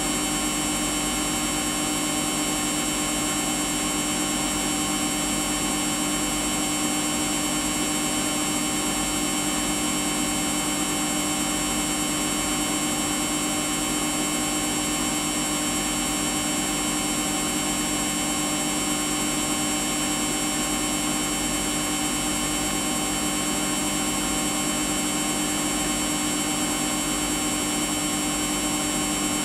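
Samsung washing machine running on its Daily Wash 40 programme, its motor and drum turning at a constant speed with a steady hum and whine that does not change or pause.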